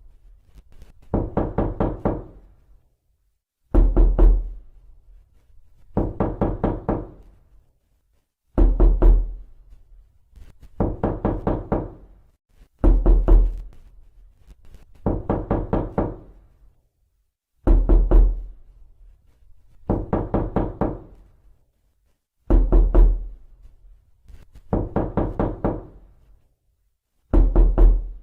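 Rapid knocking on a door in flurries that come in pairs: a heavier flurry with a deep thud, then a lighter flurry about two seconds later. The pair repeats roughly every five seconds.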